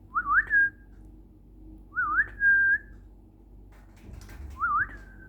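A short whistled phrase repeated three times: a quick wavy rise followed by a held note, with a few faint clicks just before the third.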